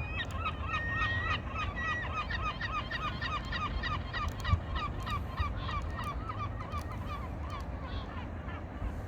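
Water birds calling in a rapid, even series of short calls, about four a second, that thin out near the end, over a steady low rumble.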